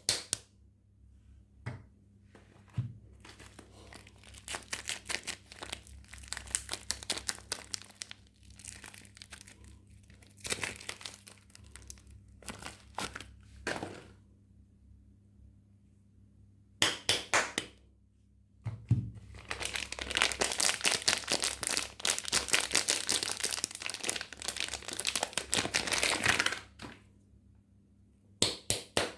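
Soap packaging being unwrapped by hand: bouts of crinkling and tearing wrapper with small taps and clicks, the longest and densest bout lasting about eight seconds in the second half.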